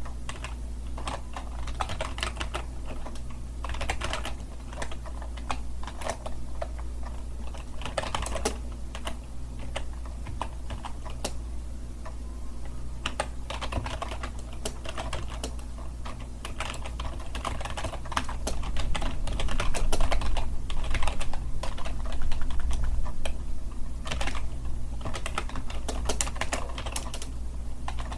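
Continuous typing on a computer keyboard: a quick, irregular stream of key clicks. It gets somewhat louder for several seconds a little past the middle, over a steady low hum.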